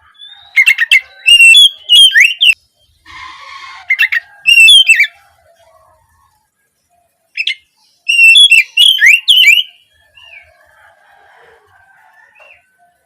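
Oriental magpie-robin (kacer) song: clusters of sharp, high whistled notes that sweep quickly down, broken by a harsh rasping burst about three seconds in, with softer chattering near the end.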